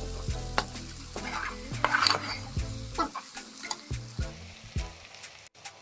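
Chopped onions, garlic, ginger and green chillies sizzling in hot oil in a kadai on a high flame, stirred with a metal slotted spatula that scrapes and knocks against the pan again and again.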